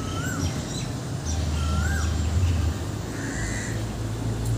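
A bird calling outdoors: short pitched notes that rise and then drop, twice about a second and a half apart, over a low steady background hum.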